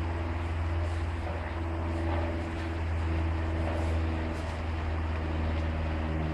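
An engine running steadily with a low hum and a few steady tones above it.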